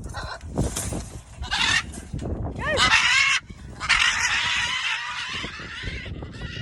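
Macaws giving loud, harsh screeching calls: several short ones and then a long one lasting about two seconds. Wind rumbles on the microphone underneath.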